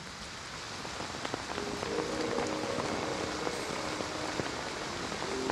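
Steady patter of rain with scattered small drip ticks; a few soft, held music notes come in about a second and a half in.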